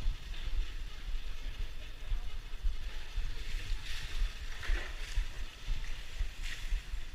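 Wind buffeting the microphone of a camera riding along on a bicycle: an uneven low rumble that keeps surging and dropping.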